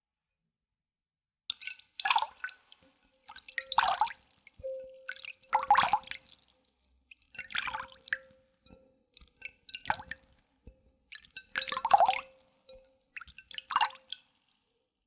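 Water being scooped up and splashed or poured by hand, in about seven separate splashes roughly two seconds apart, as hair is wetted for a wash.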